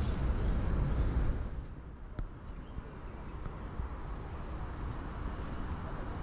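Outdoor background noise: a steady low rumble with a hiss over it, louder for about the first second and a half and then softer.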